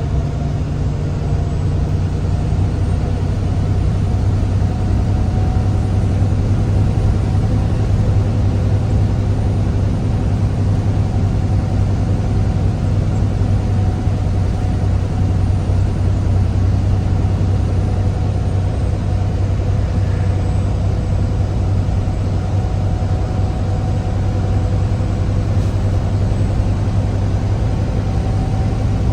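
Truck's diesel engine and road noise heard from inside the cab while driving: a steady low drone at an even speed.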